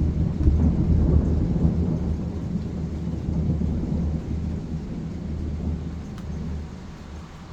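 A long, deep rumble of thunder that starts suddenly, is loudest in the first few seconds and fades away over about six seconds.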